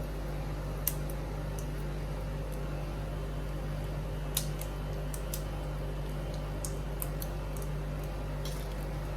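Euromatic portable air conditioner running just after its first switch-on, a steady low hum of its compressor and fan. A few sharp short clicks sound over it, about a second in, around four and a half seconds, and near the end.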